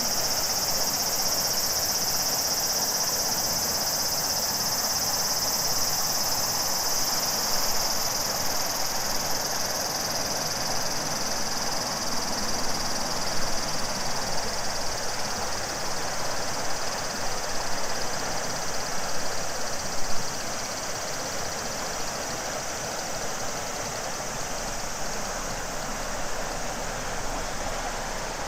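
Summer cicadas droning in a steady high chorus over rushing river water. The cicada chorus fades out a third of the way through, leaving the river flowing steadily.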